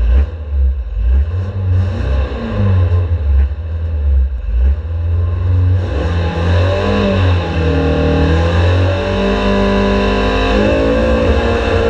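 Race car engine heard from inside the cockpit while the car is stationary, idling with a low rumble, then from about six seconds in revved up and down and held at high revs ahead of the launch.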